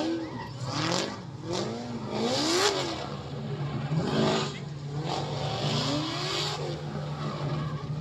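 Car engines revving over and over, the pitch climbing and dropping about half a dozen times, over a steady low drone.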